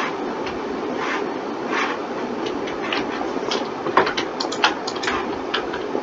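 Irregular clicking of a computer keyboard and mouse, with two sharper clicks about four seconds in, over the steady hum of a computer fan.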